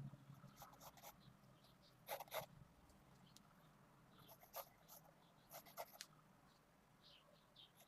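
Faint pencil strokes on paper from a 0.5 mm 2B mechanical pencil: a few short, scratchy strokes, two of them close together, over near silence. Faint short high chirps near the end.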